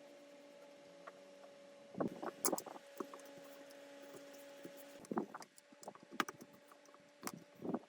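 Handling noise: clusters of sharp clicks and knocks, as of parts or tools being handled, over a steady hum that drops out for a couple of seconds after the middle.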